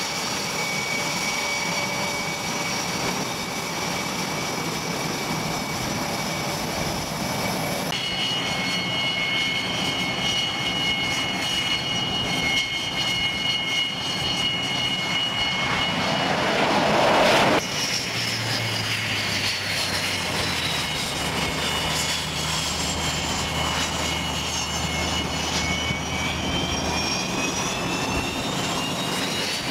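Jet airliner engines running with a high-pitched whine over a steady rush, across several clips that change suddenly. A louder rushing swell builds and cuts off about two-thirds of the way in. Near the end the whine tones slide down and then up as an aircraft passes.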